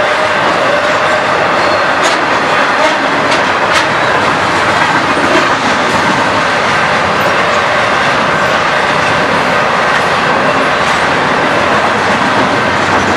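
Train passing close by: a steady, loud rumble of steel wheels on rails, with a few sharp clicks from the wheels crossing rail joints a couple of seconds in.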